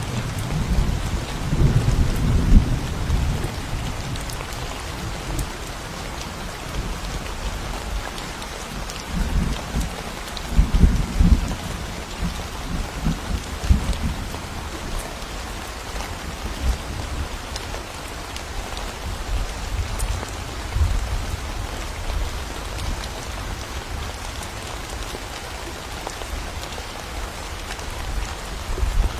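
Steady rain with low rolling thunder rumbles: a strong rumble near the start, another in the middle, and a fainter one later.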